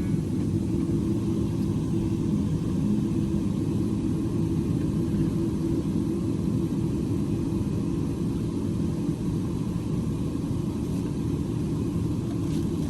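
Low, steady rumble of a Boeing 777-300ER's GE90 engines and airframe, heard from inside the passenger cabin.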